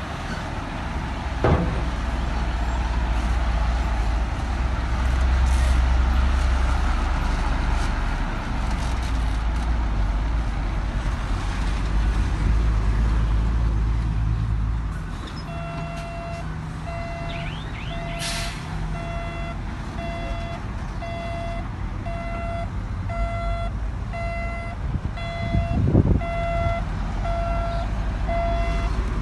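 Heavy diesel earth-moving machinery (bulldozer and dump truck) running with a deep engine rumble. From about halfway a reversing alarm beeps about once a second as a machine backs up. A sharp knock comes near the start and another near the end.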